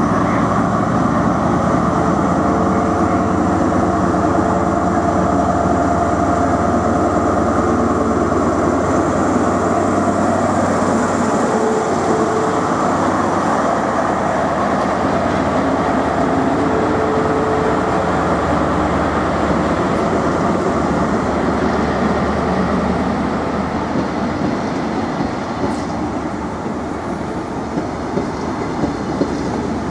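An HST's Class 43 diesel power car running under power as it pulls away and passes close by, a loud, steady engine sound. Near the end the coaches roll past, their wheels clicking over rail joints.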